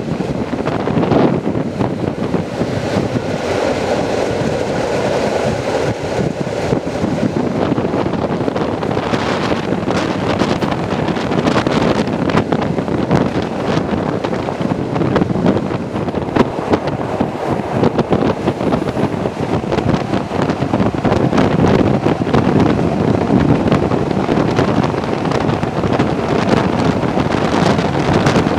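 Wind rushing over the microphone at the open window of a moving passenger train, with the wheels clattering on the rails.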